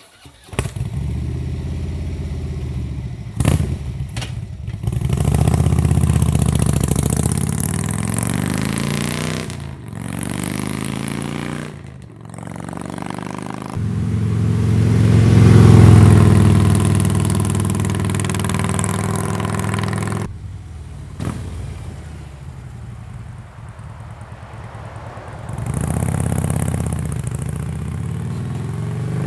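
Harley-Davidson bagger's V-twin engine running through Crusher true dual exhaust with Maverick 4-inch slip-on mufflers, ridden with the engine note rising and falling through several pulls. It is loudest about halfway through, with a few short clicks along the way.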